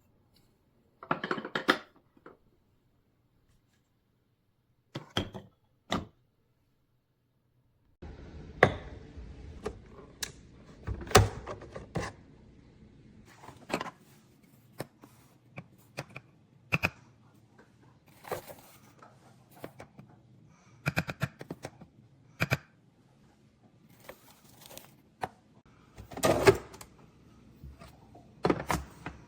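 Clicks, knocks and thunks of plastic parts being handled, coming singly and in short clusters with pauses between. From about eight seconds in a faint steady hum sits underneath.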